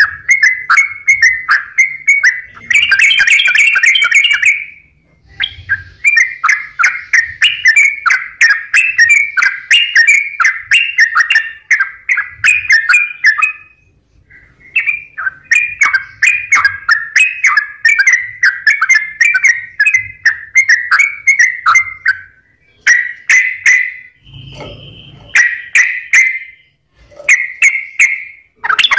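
Yellow-vented bulbul (trucukan) in full song: long runs of fast, bubbling chattering notes, broken by a few short pauses.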